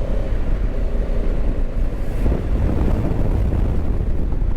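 Wind buffeting the rider's helmet microphone over the steady running of a Honda Africa Twin motorcycle on the move.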